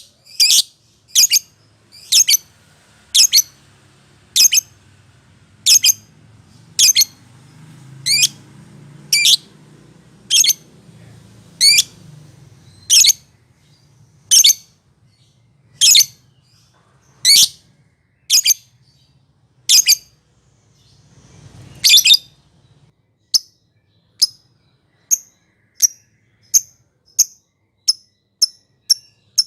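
Lovebird giving short, sharp, high-pitched calls, repeated about once every second and a bit; a little after twenty seconds they turn quicker and softer, about two a second.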